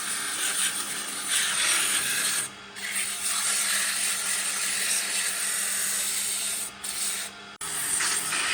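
Wood being sanded: a steady rasping hiss that breaks off briefly about two and a half seconds in and twice near the end.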